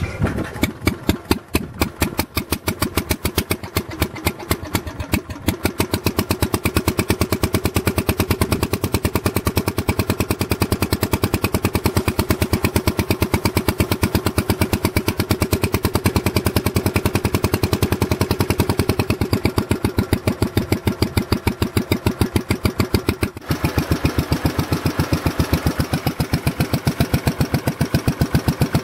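Wheel Horse Magna-Trac garden tractor engine, just caught on a cold start in sub-freezing weather, running with an even, steady pulsing beat. It falters briefly about 23 seconds in, then keeps running.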